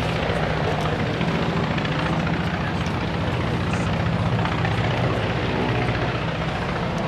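Twin radial piston engines of a Douglas C-47 Dakota running in flight: a steady, even propeller drone with a low hum.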